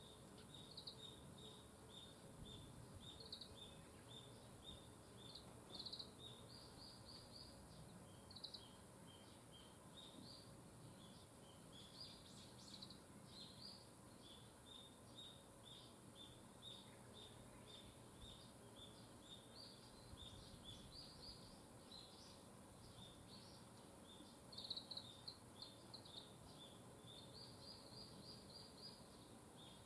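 Small birds chirping faintly and continuously, a steady run of many short, high chirps.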